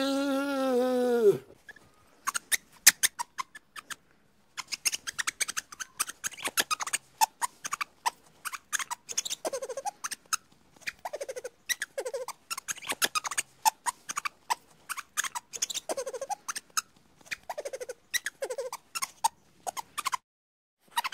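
A small animal squeaking and chittering: rapid runs of high clicks and squeaks, with short squeals every second or two. It opens with the end of a longer call that falls in pitch.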